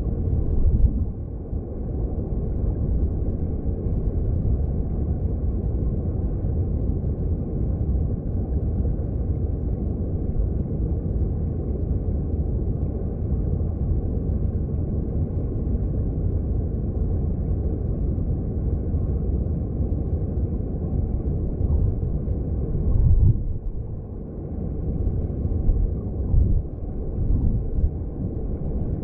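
Mountain stream heard underwater: a steady low rushing rumble of flowing water, with a brief swell and dip about three-quarters of the way through.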